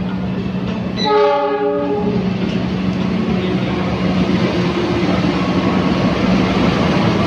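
A train horn sounds once for about a second, over the steady drone of a train. The train's rumble grows a little louder afterwards.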